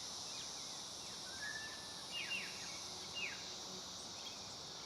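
Steady high insect chorus with a few short, high bird calls over it, loudest as quick downward notes about two and three seconds in: the begging calls of a fledgling willie wagtail asking to be fed.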